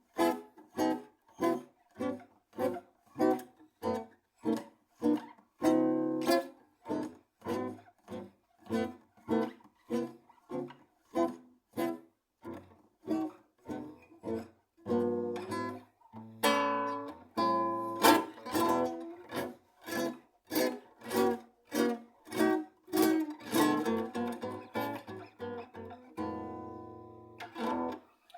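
Acoustic guitar music: notes plucked in a steady pattern, about two a second, with a few longer held chords.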